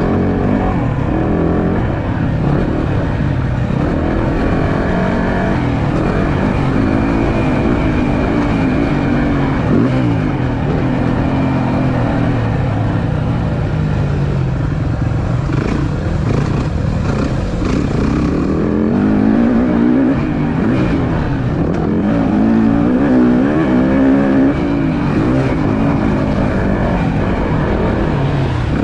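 Yamaha YZ450F motocross bike's single-cylinder four-stroke engine being ridden on a dirt track, revving continuously with its pitch rising and falling through throttle and gear changes.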